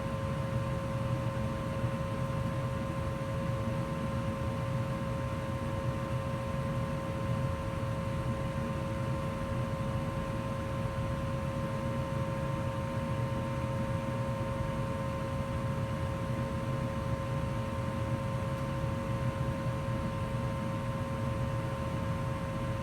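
2004 Goodman gas furnace running steadily in heat mode: an even low rush of air with a constant hum and two steady whining tones over it.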